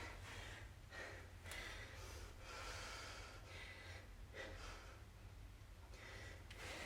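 A person's hard breathing during strenuous kettlebell exercise, with faint breaths coming about once a second.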